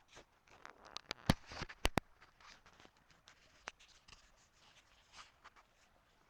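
Irregular sharp clicks and taps, loudest in a quick cluster about one and a half to two seconds in, then sparser.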